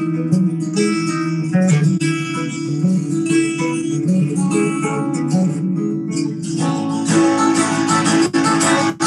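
Band playing an instrumental passage led by strummed guitar over bass, with sustained notes and no singing.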